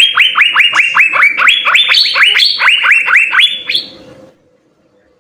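Asian fairy-bluebird singing a rapid run of sharp whistled notes, each falling quickly in pitch, about five a second. The run stops about four seconds in.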